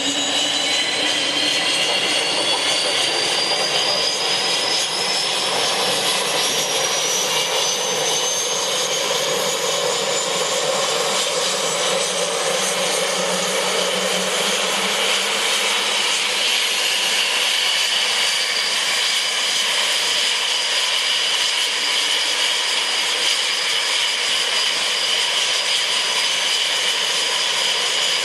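Cessna Citation CJ1's twin Williams FJ44 turbofans running with a loud, even roar and a high whine that climbs in pitch over the first ten seconds or so as the engines spool up, then holds steady.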